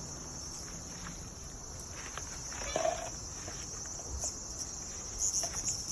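Cicadas buzzing in a steady, high drone, swelling in short pulses near the end.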